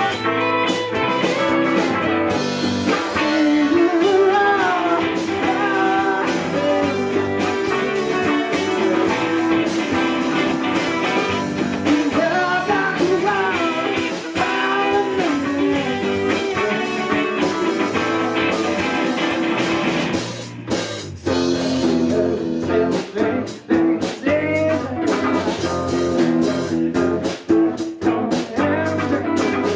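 A live band playing a guitar-led song, with the sound briefly dipping and changing about two-thirds of the way through.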